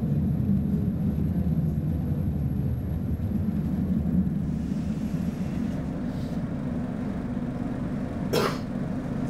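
Cabin of a Roslagsbanan X10p electric commuter train slowing to a stop at a platform: a steady low running rumble that eases as it slows. One short sharp noise about eight seconds in.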